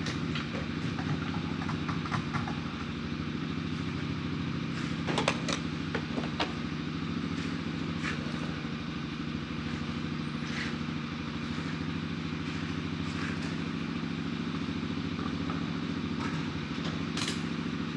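An engine running at a steady idle, with a few light clicks and clatters about five to six seconds in and again near the end.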